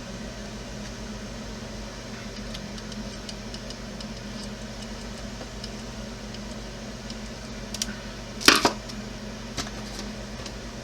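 Steady low hum with light clicks and ticks of small parts and tools being handled on a workbench, and one louder clack of something set down or knocked about eight and a half seconds in.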